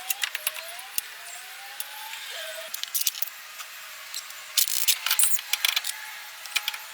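Light metallic clicking and clinking, densest about five seconds in, over a faint whine that rises in pitch several times in the first half.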